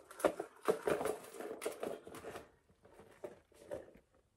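Handling noises from a leather Louis Vuitton Marceau handbag being opened out and turned in the hands: a busy run of small clicks, taps and rustles, thinning to a few scattered ones over the last couple of seconds.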